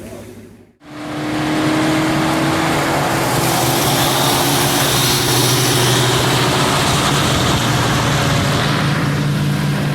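Car driving at speed: a steady engine drone under loud, even road and wind noise, which starts abruptly about a second in.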